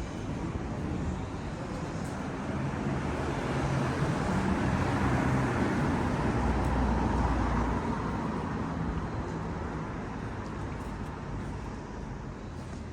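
A road vehicle passing on a city street: engine and tyre noise swell over a few seconds, peak around the middle, then fade away, over steady traffic noise.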